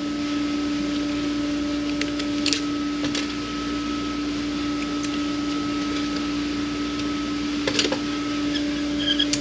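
A steady machine hum with a low and a higher tone, with a few light clicks and clinks of transmission parts being handled on the bench, about five in all.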